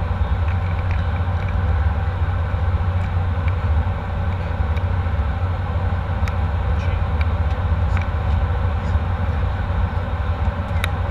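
Jet airliner cabin noise: a steady low rumble with a few faint clicks and rattles.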